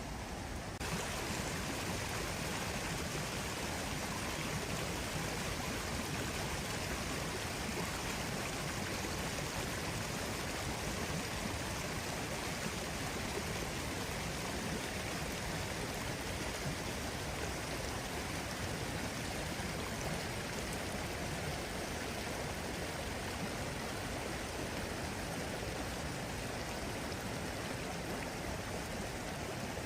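Steady rushing of water, rain or running stream water, with no distinct drops or pattern; it steps up louder and brighter about a second in.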